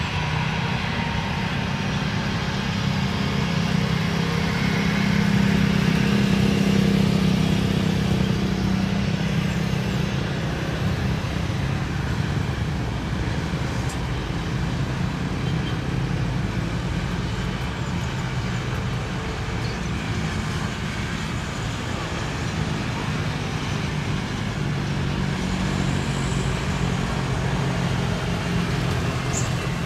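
Steady engine rumble of a running vehicle, a continuous low hum that swells a little a few seconds in.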